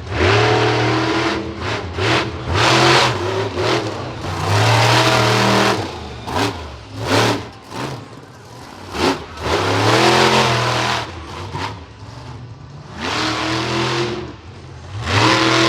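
Monster truck engine revving in repeated hard bursts, the pitch climbing and dropping back between throttle stabs, with a few short sharp blips around the middle.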